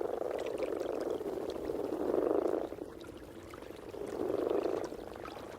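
A chorus of brown frogs croaking at their spawning gathering in the shallows: a dense, low, continuous croaking that swells louder about two seconds in and again about four seconds in.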